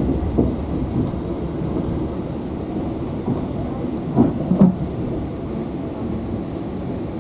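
Steady rumble of a passenger train carriage running on the rails, heard from inside the coach as the train pulls into a station. A couple of short louder sounds come about four seconds in.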